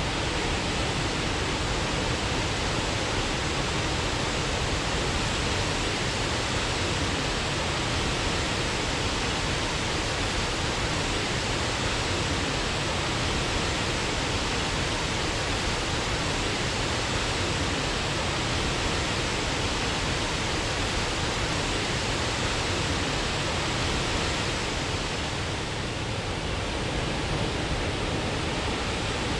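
Waterfall: a steady, full rush of falling water, with a brief slight dip in level near the end.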